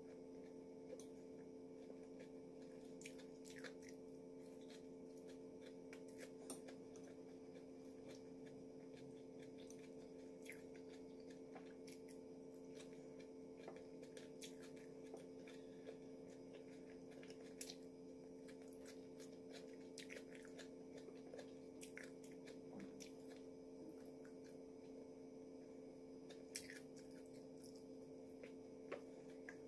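Faint chewing of soft tuna macaroni, with scattered small clicks, over a steady low hum.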